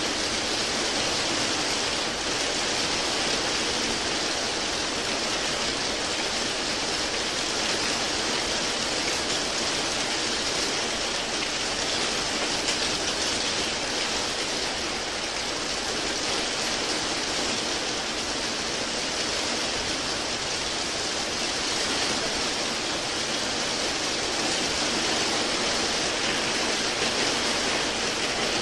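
Steady rain falling without a break, an even hiss with no separate drops or pauses.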